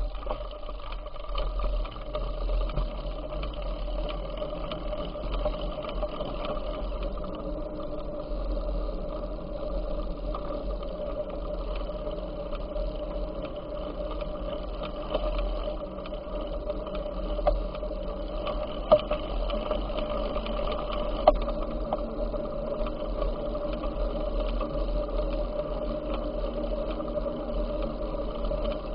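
Steady running noise of a bicycle on the move, a constant hum over a low rumble, with a few sharp clicks near the middle.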